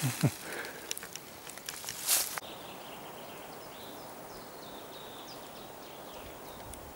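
Rustling and brushing noises with a few clicks in the first two seconds or so, ending in a louder brushing burst. After that, faint short bird chirps over a steady forest background.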